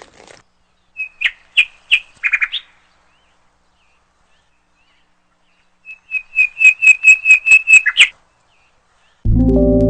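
A bird calling in two bouts of quick, high, repeated chirps, the second a run of about ten notes. Near the end, loud music with deep sustained gong-like tones comes in.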